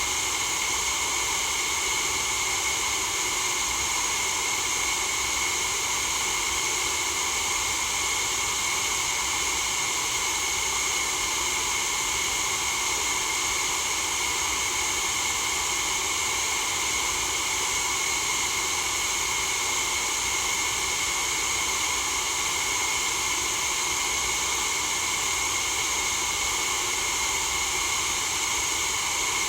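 Steady white noise for sleep: an even, unchanging hiss, strongest in the upper treble.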